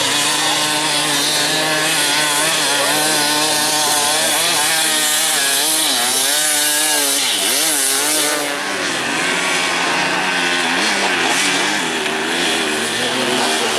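Several off-road dirt bike engines revving up and down at once, each pitch rising and falling with the throttle, with a high, raspy, chainsaw-like buzz.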